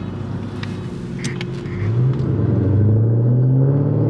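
A car engine running, then revving up about two seconds in and holding the higher revs.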